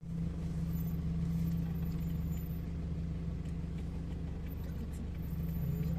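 Steady engine drone and road noise of a vehicle driving at an even speed, heard from inside the vehicle.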